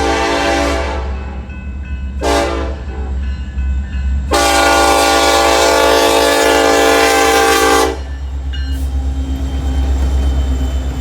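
Norfolk Southern freight locomotive's air horn blowing the end of a grade-crossing signal: a blast fading out about a second in, a short blast, then a long blast of about four seconds. After it, the locomotive rumbles past with rhythmic wheel clatter on the rails.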